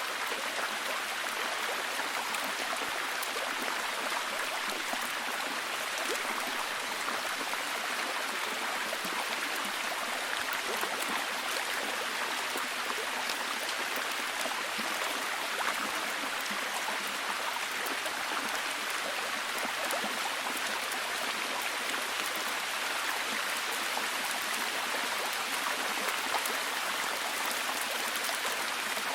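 Steady heavy rain falling, an unbroken hiss with fine drop patter that stays even throughout.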